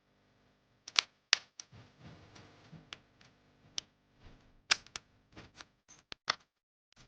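Irregular sharp clicks and light knocks of hard objects being handled, about a dozen spread over several seconds with short quiet gaps.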